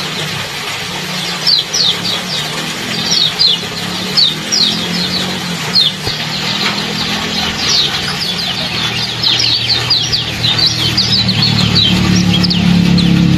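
Repeated short, downward-sliding chirps of a small songbird, the 'ciak ciak' call used to set kecial (white-eye) birds calling, coming in quick runs over a steady hiss. A low steady hum grows louder near the end.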